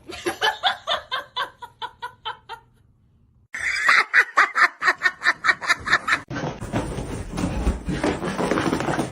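People laughing in quick rhythmic bursts, about five a second. A louder, higher-pitched fit of laughter starts abruptly about three and a half seconds in, and it gives way just past six seconds to a steady noisy rush.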